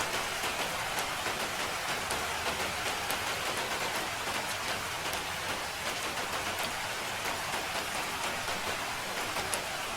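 Steady rainfall: an even hiss with many small, sharp drop ticks throughout.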